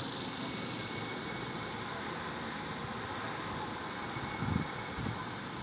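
Steady urban background rumble with a distant engine drone, with two short low thumps about four and a half and five seconds in.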